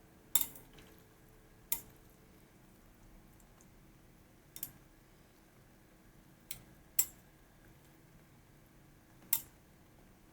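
Light clinks and taps of kitchenware being handled, six short, sharp strikes spread out, each ringing briefly.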